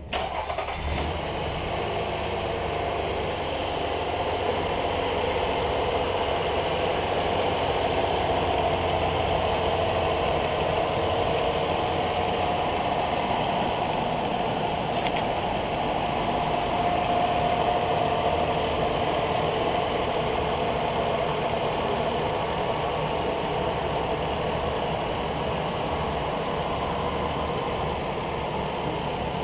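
2015 Infiniti QX60's 3.5-litre V6 engine idling steadily.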